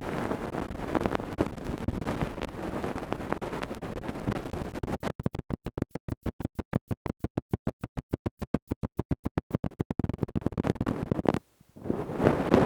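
Close-miked ear-cleaning ASMR sounds: tools scratching and rubbing. About five seconds in, this gives way to a fast, even scraping of about eight strokes a second that lasts some five seconds. The sound cuts out briefly near the end, then the rubbing resumes.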